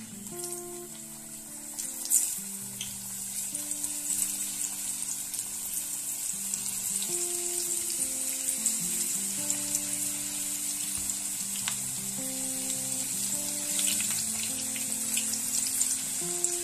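Courgette slices frying in hot oil in a pan: a steady, busy sizzle with small crackles and a sharp crackle about two seconds in, growing a little louder as the pan fills. Soft background music with held notes plays underneath.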